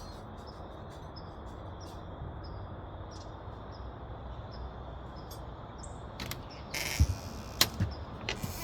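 Small birds chirping over and over above a steady background hum of outdoor ambience. From about six seconds in come a few sharp knocks and a rattling clatter, like metal tools being handled.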